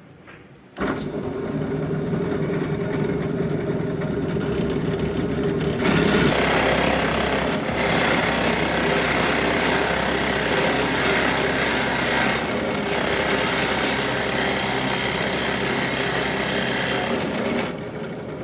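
An electric power tool running steadily, starting suddenly about a second in, getting louder and harsher about six seconds in, and dropping away near the end.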